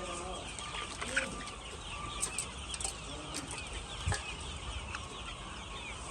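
A large flock of laying hens clucking and calling all at once, with a few short sharp clicks and knocks among the calls.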